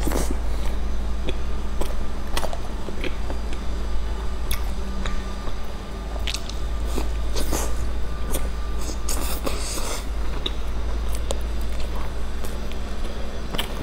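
Close-up biting and chewing of a milk-dipped puffed-grain snack bar: crisp crunches and clicks mixed with softer, wet chewing, over a steady low hum.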